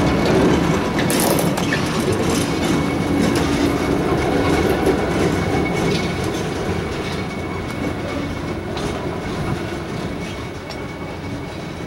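ALCO diesel locomotive running and train wheels clacking over the rail joints as an excursion train rolls past and pulls away, steadily growing fainter. A thin, steady high squeal runs under it.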